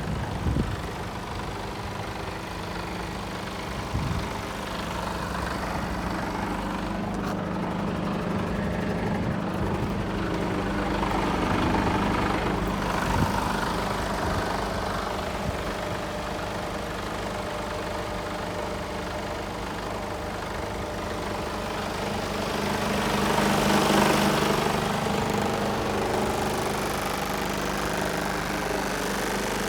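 Mercedes Actros 2545 tractor unit's 450 bhp Euro 6 diesel engine idling steadily, getting louder twice for a few seconds, once near the middle and again near the end.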